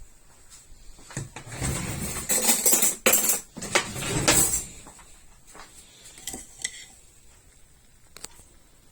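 A metal teaspoon scraping and clinking against crockery as sugar is spooned into a cup of espresso. There is a run of scraping in the first half, then a few light clinks that ring briefly.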